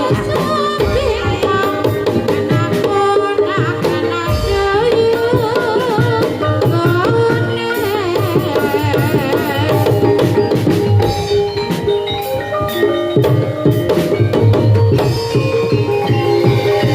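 Javanese gamelan music accompanying a kuda kepang dance: hand drums beating steadily under held metallophone notes, with a wavering melody line above.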